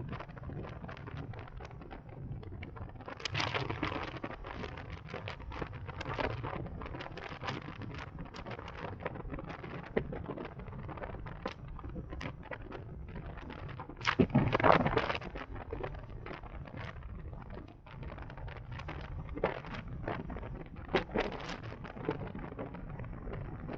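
Wind buffeting and crackling on the microphone over a low steady rumble of road noise, from riding a 2023 CSC Zongshen RX1e electric motorcycle, with a louder gust of buffeting about fourteen seconds in.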